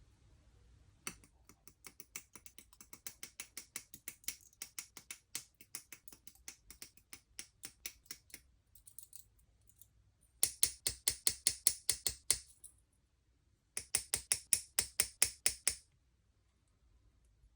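Rapid, regular mechanical clicking, about five clicks a second, in three runs: a softer first run, then two louder runs separated by short pauses.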